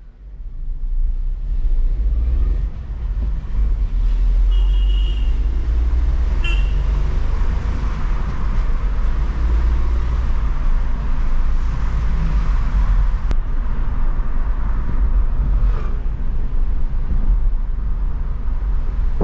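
Volkswagen Polo's 1.0-litre three-cylinder turbo petrol engine pulling the car along city streets, with heavy road rumble, heard from inside the cabin; the engine note rises and falls. Short horn toots sound around five and six and a half seconds in.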